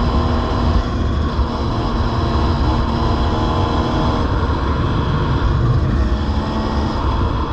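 Dirt bike engine running steadily at an even pitch, with a heavy low rumble under it.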